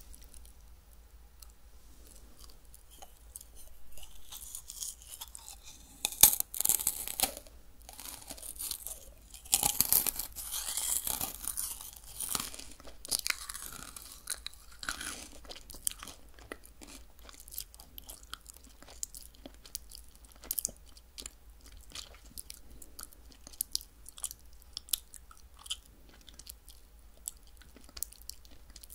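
Close-miked crunching and chewing of a crisp meringue cookie, loudest in the first half, then settling into quieter chewing with small wet mouth clicks.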